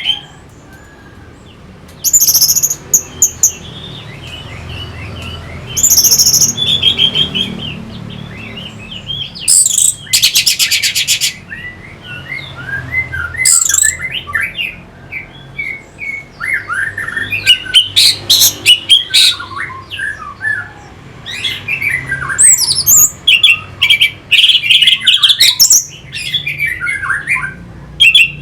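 Orange-headed thrush singing: phrases of whistled and chattering notes with quick pitch slides, separated by short pauses, with a rapid buzzy trill about ten seconds in.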